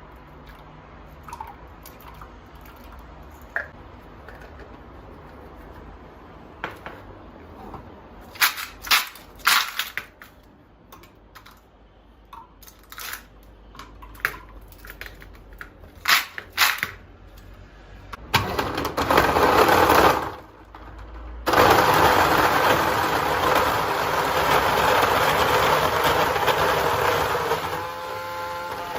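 A few scattered clicks and knocks of things being handled, then a small electric motor appliance starts: a short burst of about two seconds, a brief stop, then a steady run of about six seconds that winds down near the end.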